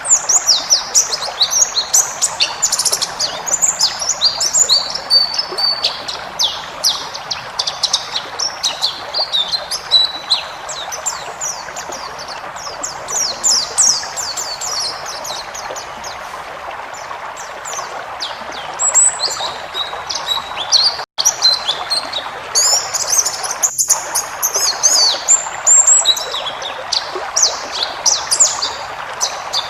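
White-eye (pleci) singing a fast, high twittering song of quick chirps in long runs, over a steady background hiss. The song eases off for a few seconds past the middle, then picks up again.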